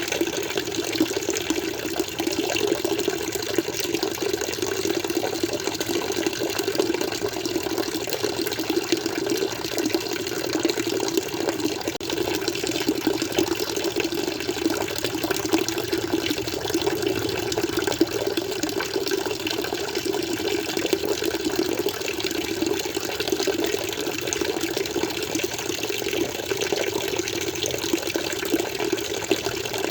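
Water flowing steadily, an even, unbroken running-water sound with no pauses or changes.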